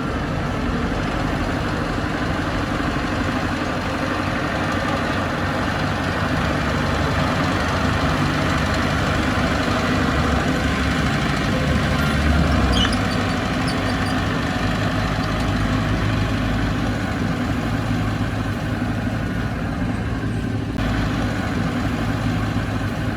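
Heavy diesel earthmoving machinery running steadily, with a brief rise in its low engine rumble about twelve seconds in.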